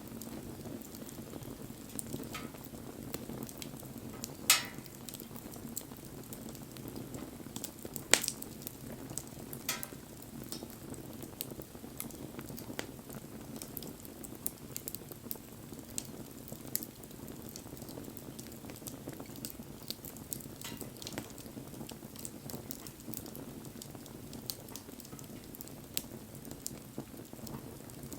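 Wood bonfire burning: a steady low rush with frequent small crackles and a few louder pops, the loudest about four and a half and eight seconds in.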